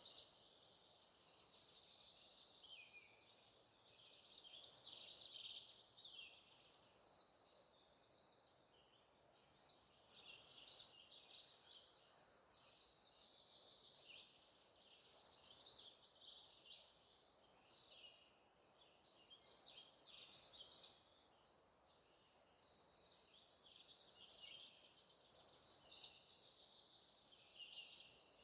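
Songbirds singing: short, high, fast-trilled phrases repeating every two to three seconds, some louder than others.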